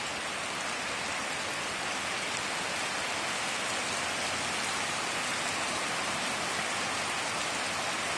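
Heavy rain pouring down on a wet paved street and the trees around it, a steady even hiss of a cloudburst.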